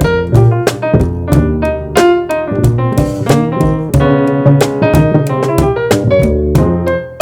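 Jazz trio playing: keyboard chords and melody lines over bass, with drums keeping a steady beat of sharp strokes.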